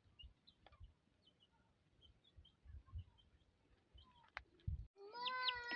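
Faint scattered bird chirps and soft knocks, then about five seconds in a small child starts crying in one long, loud, steady wail.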